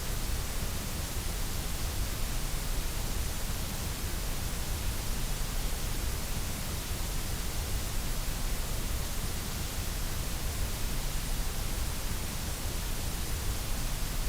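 Steady generated white noise: an even, unchanging hiss.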